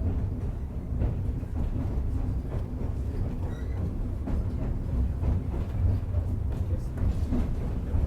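Narrow-gauge passenger train rolling along the track, heard from an open-air car: a steady low rumble with faint scattered clacks.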